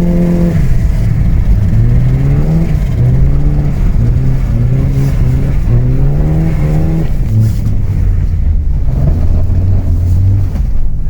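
Saab B204 four-cylinder engine in an Opel Omega driving on ice, its pitch rising and dropping back about four times in a row, then running steadier and lower.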